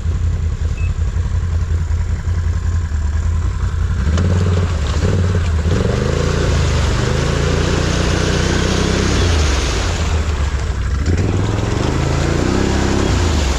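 Off-road vehicle's engine idling, then revved hard about four seconds in as it tries to drive out of a spot where it is stuck, bottomed out. The revs fall back a little past ten seconds and climb again near the end.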